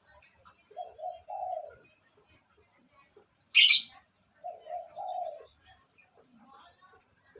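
A dove cooing: two low phrases, about a second and five seconds in. Between them comes one short, sharp, loud burst of noise.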